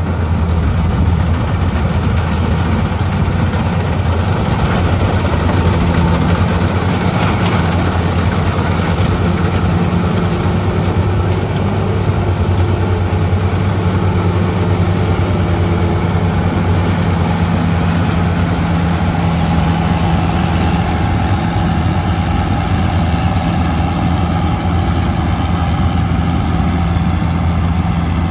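World Star WS7.0 combine harvester running steadily, its 88 hp Changchai diesel engine giving a constant low hum.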